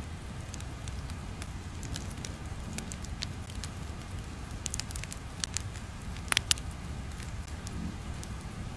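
Steady low rumble with irregular sharp crackles and pops, the loudest few clustered about six seconds in, like a crackling-fire ambience track.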